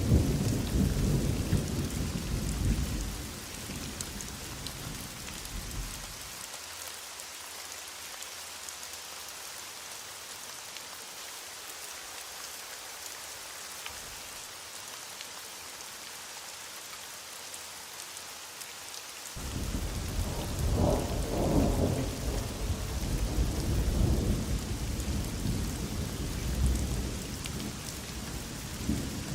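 Heavy rain falling steadily, with rolling thunder. A long low rumble lasts about the first six seconds, then dies away. A second rumble breaks in suddenly about two-thirds of the way through and runs on to the end.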